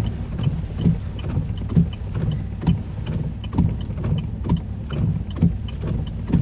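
Steady low rumble inside a stopped truck's cab, with a short tick repeating evenly about once a second.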